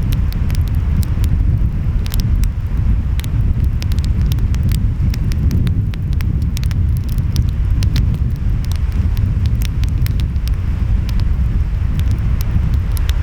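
Wood fire crackling, with many sharp irregular pops and snaps, over a steady low rumble of ocean waves and wind.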